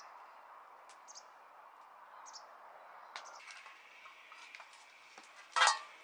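A few short, high bird chirps over a faint steady hiss and scattered small clicks, then a single loud clatter near the end.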